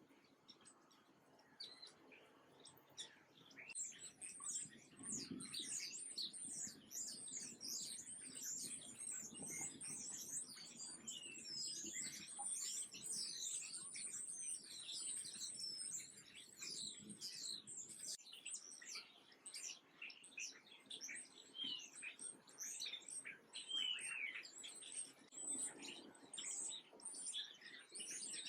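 A chorus of small birds chirping: many quick, high calls overlapping, growing louder over the first few seconds.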